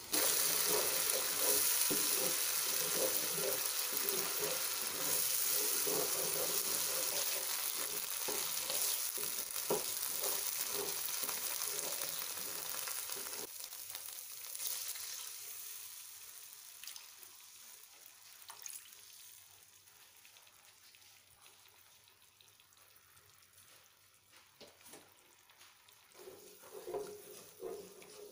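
Spice paste frying in hot oil in a non-stick wok, a loud, steady sizzle with a wooden spatula stirring through it, slowly fading. About halfway the sizzle drops off sharply as water is poured in, leaving a much quieter pan with light spatula stirring and scraping near the end.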